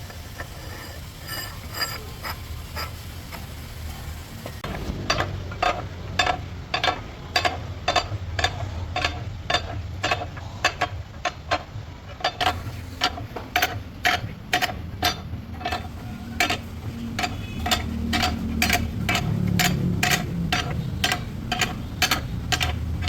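Steady run of sharp metallic clicks, about two to three a second, starting about five seconds in, over a low steady hum: hand-tool work on the truck's differential.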